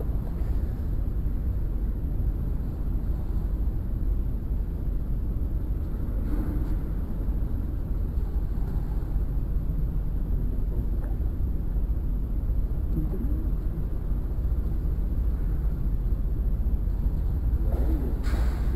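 Steady low rumble with no clear events, with a few faint short sounds like distant voices.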